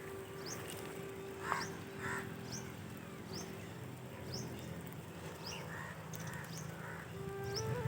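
Crows cawing, a few harsh calls in twos and threes, over another bird's short high chirp repeated about once a second. Music with a stepping melody comes in near the end.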